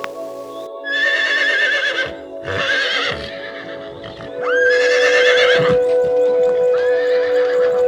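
Horse whinnying four times, each a quavering, wavering call, over background music with held tones; a strong steady tone enters about halfway through.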